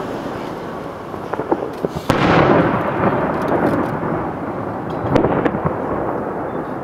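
Fireworks shells bursting: a loud boom about two seconds in that rolls on with a long rumbling echo, another boom about five seconds in, and scattered sharp crackles between them.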